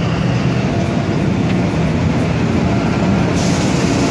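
Diesel locomotive built by CSR Ziyang rolling slowly past at close range, with a steady heavy rumble and wheel-on-rail noise. The sound turns brighter and hissier about three and a half seconds in, as the wheel bogie comes alongside.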